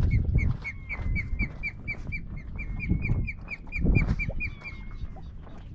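A bird calling a fast series of short, sharp notes, about four a second, trailing off near the end, over wind rumble on the microphone and a couple of knocks from the boat.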